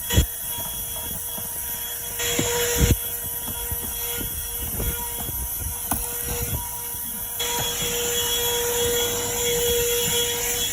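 Worx portable car vacuum running steadily, a motor whine whose airflow noise swells and eases as the nozzle is worked over carpet. A couple of short knocks, near the start and about three seconds in, as the nozzle bumps the car's interior.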